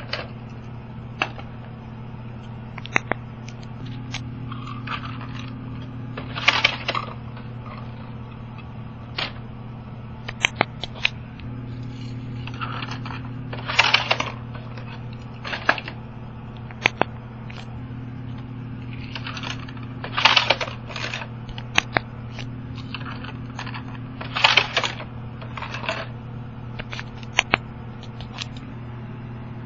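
Small toy cars being handled: scattered sharp clicks and short scrapes and rattles every second or two, over a steady low hum.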